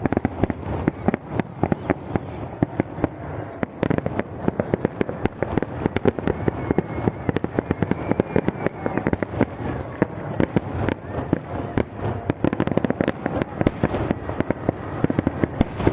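Fireworks going off in a dense, continuous barrage of sharp crackling bangs, many per second.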